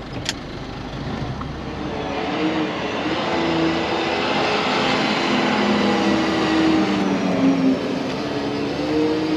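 Semi-truck engine and road noise, growing louder over the first two or three seconds as the truck gets under way, with engine tones that rise and fall in pitch.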